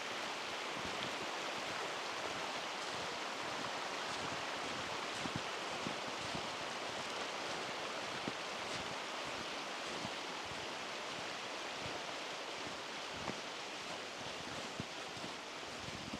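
Rushing water of a mountain stream, a steady even hiss with a few faint ticks scattered through it.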